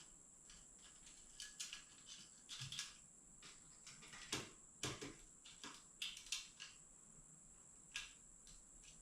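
Faint, scattered clicks and taps of metal parts being handled as a motorcycle skid plate's captive screws are started into the frame.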